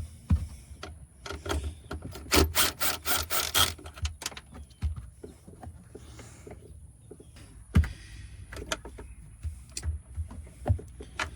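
Socket wrench working on the 10 mm nuts of a jet ski's power distribution box: a quick run of clicks about two and a half seconds in, with scattered small knocks and handling noise, and one louder knock near eight seconds.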